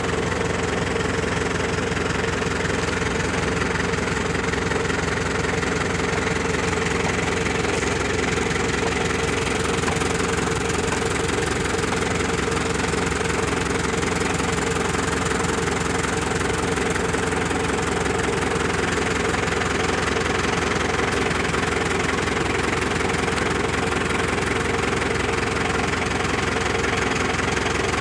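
A steady motor drone with a constant hum, unchanging throughout.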